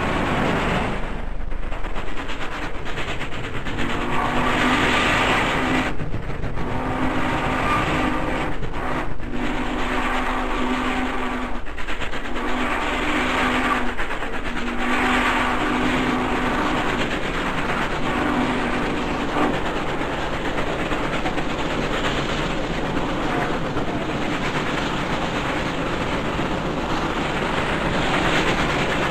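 Steam locomotive running, its chime whistle blowing about six long blasts in a row before the train runs on without it.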